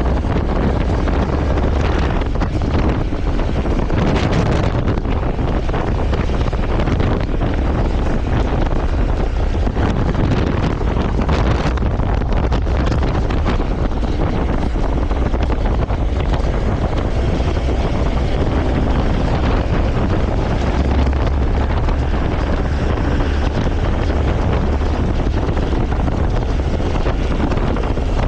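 Steady wind rushing and buffeting over the microphone on a moving motorcycle, with the engine and road noise running underneath.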